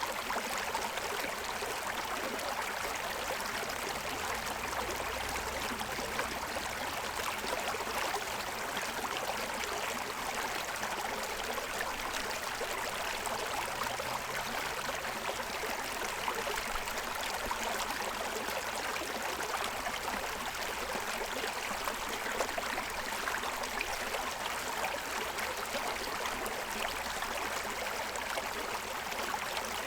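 Forest stream running steadily over the stones of its bed: a continuous rushing and babbling of water.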